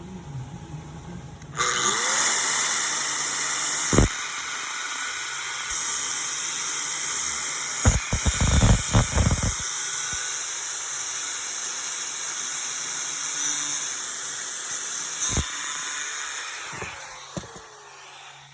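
Angle grinder starting up, grinding metal with a steady high-pitched hiss, then spinning down near the end. A few sharp knocks come about four seconds in, in a quick cluster around eight to nine seconds, and again near fifteen seconds.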